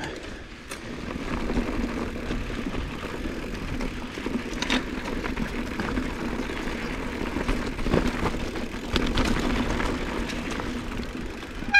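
Giant Trance 2 mountain bike rolling over a rough trail: steady tyre and wind noise with scattered knocks and rattles as the bike hits bumps.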